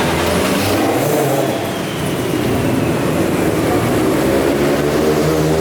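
A car engine running and revving, its pitch climbing in the second half.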